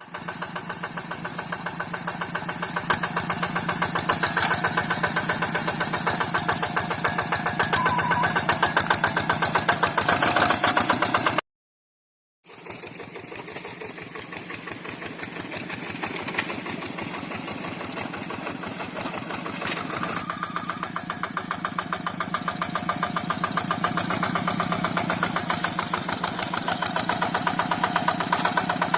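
Tractor's diesel engine running with a steady, rapid firing beat. The sound drops out completely for about a second near the middle, then the engine carries on.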